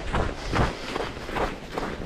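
A runner's footsteps at a steady running pace, about two to three strides a second.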